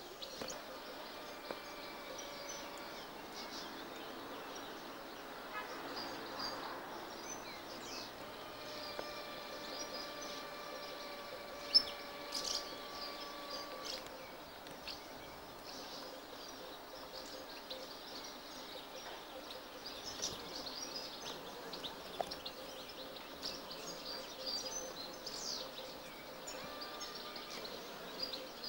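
Small birds chirping, short high calls scattered throughout over a steady background hiss with faint steady tones. A single sharp click stands out about twelve seconds in.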